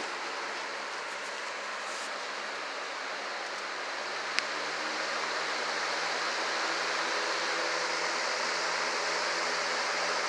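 Box fan running with a steady rush of air and a faint low hum. A single sharp click about four seconds in, after which the rush grows a little louder and holds steady.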